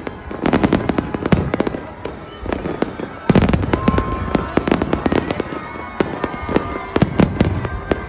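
Aerial fireworks display: shells bursting in a rapid barrage of bangs and crackles, several reports a second over a continuous rumble. It gets louder about three seconds in.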